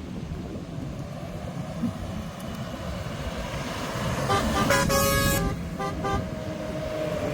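Vehicle horn tooting several times about four seconds in, one blast longer than the others, over a steady low rumble.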